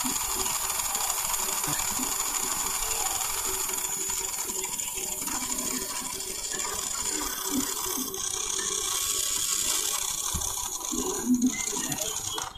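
A small motorised tool running steadily with a high hiss, cutting off suddenly near the end.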